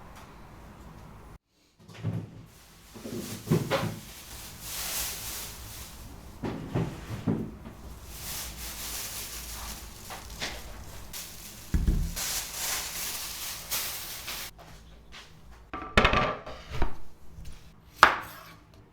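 Household handling sounds: a string of separate knocks and clatters as wooden items and dishes are set down and moved, with stretches of rustling or scraping between them.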